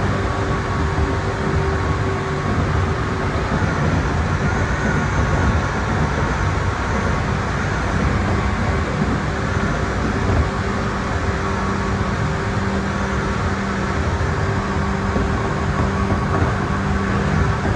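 Tokyu 8500 series electric train running at a steady speed, heard from inside the lead car: a continuous rumble of wheels on rail with a steady low hum from the traction motors and gearing.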